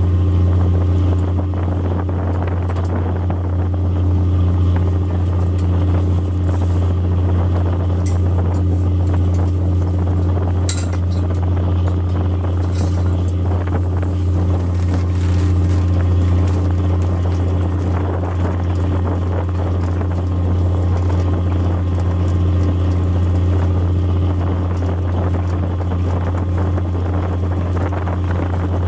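Squid fishing boat's engine running steadily, heard aboard as an even low drone, with a few faint brief clinks in the middle.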